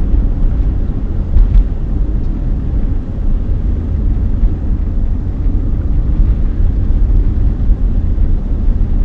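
Steady low rumble of a Chevrolet Tahoe driving through snow, with engine and tyre noise. There are a couple of brief knocks about a second and a half in.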